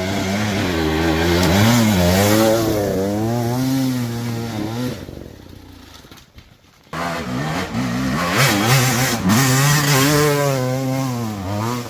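Enduro dirt bike engine revving up and down repeatedly under load. About five seconds in it falls nearly away, then comes back abruptly about two seconds later and revs up and down again.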